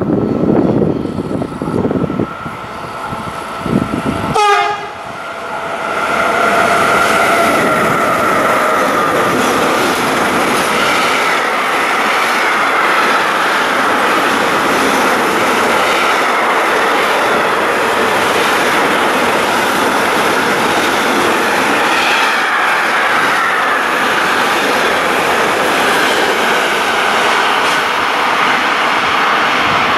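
Two Siemens Vectron electric locomotives hauling a fast freight train: the horn sounds a long blast as they come through, then the loud, steady rush of the intermodal wagons carrying lorry trailers rolling past at speed.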